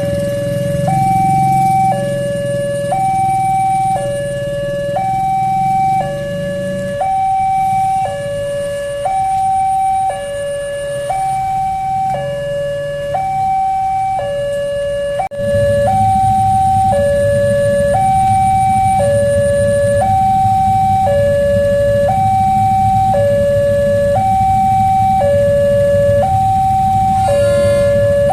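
Electronic railroad level-crossing warning alarm, a loud two-tone signal stepping between a lower and a higher tone about once a second, sounding to warn of an approaching train. A low rumble runs underneath, fading about a quarter of the way in and coming back louder after a sudden break about halfway.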